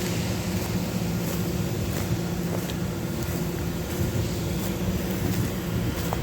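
Steady low mechanical hum at a constant pitch, unchanging throughout, with a few faint clicks.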